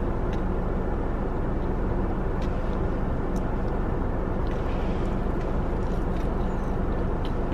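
Steady low hum of a car engine idling, heard from inside the cabin, with a few faint clicks.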